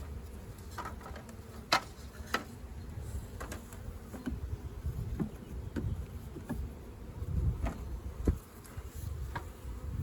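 Honey bees buzzing steadily around the hive, with a few sharp clicks or knocks, the loudest about two seconds in and another near the end.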